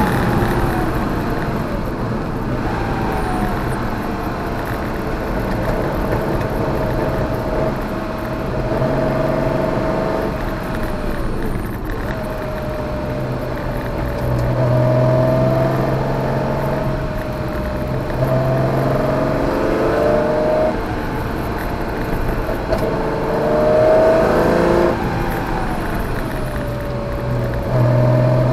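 Porsche 914/6's air-cooled flat-six engine heard from inside the cabin, pulling hard and revving through the gears. Its pitch climbs in short pulls and drops back each time the car slows or shifts.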